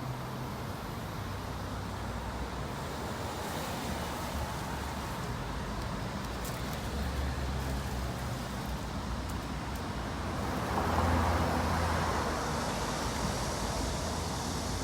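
Steady road traffic noise, with a louder swell about eleven seconds in.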